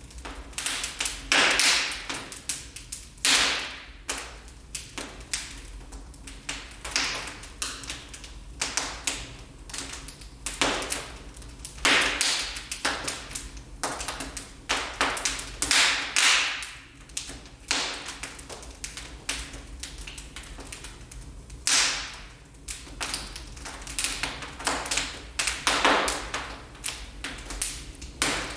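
Wood fire crackling in a fireplace: irregular sharp pops and snaps, some louder every few seconds, over a low steady hum.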